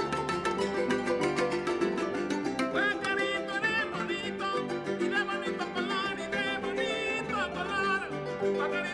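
Son jarocho string ensemble playing a fast strummed rhythm with a plucked melody over it. A high, wavering melody line with vibrato comes in about three seconds in.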